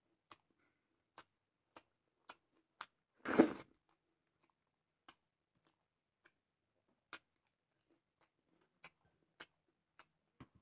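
Close-up mouth sounds of a person eating rice and curry by hand: soft, wet chewing clicks and lip smacks, spaced irregularly, with one louder, longer smack a little over three seconds in.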